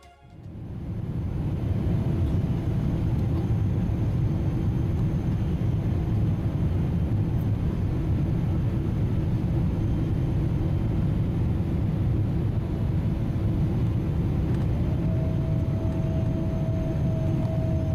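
Boeing 777-300 airliner cabin noise during descent: a steady, deep rumble of engines and airflow, with a faint whine coming in near the end.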